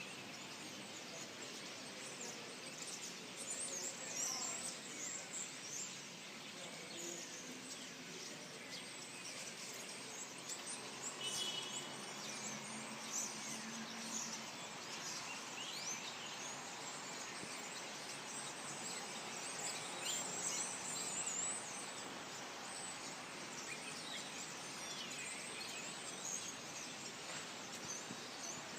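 Birds chirping and calling, many short chirps scattered throughout over a steady background hiss.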